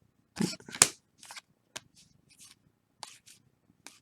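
Trading cards being handled and flipped through: a string of short papery snaps and slides, two louder ones within the first second and fainter flicks after.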